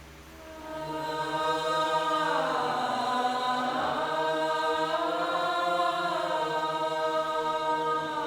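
A chanted vocal drone: a voice held on one long, steady note from about a second in, its vowel sound slowly shifting.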